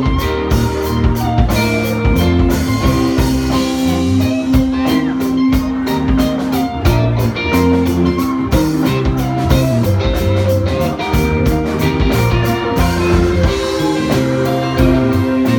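Live rock band playing: guitars over changing bass notes and a steady drum-kit beat.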